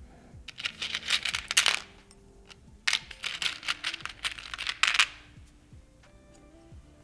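Game components and packaging handled during an unboxing: two bursts of dense clicking and rustling, the first about a second long and the second about two seconds, over soft background music.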